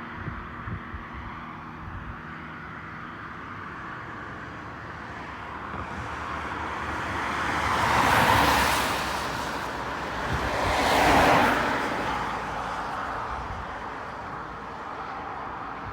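Two road vehicles passing close by, one about three seconds after the other, each swelling up and fading away over a steady background.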